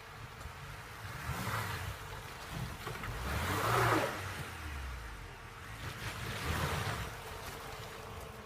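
Lada Niva 4x4 driving off-road: a low engine rumble under three swells of rushing noise, the loudest about four seconds in.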